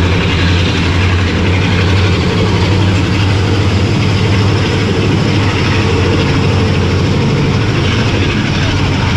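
Diesel-hauled passenger train on the move, heard on board: a steady low engine drone over continuous running noise.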